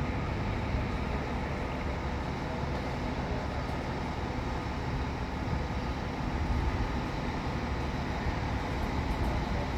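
Scania K500C double-decker coach under way: a steady engine and road rumble that holds even throughout.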